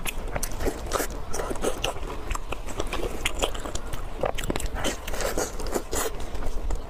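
Close-miked eating: biting and chewing large pieces of cooked meat with fatty skin, a dense run of small irregular wet clicks and smacks.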